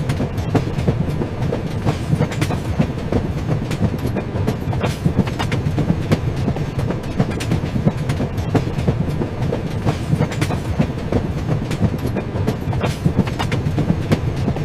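A train running along the track, with a steady low rumble and frequent, irregular clickety-clack of the wheels passing over rail joints.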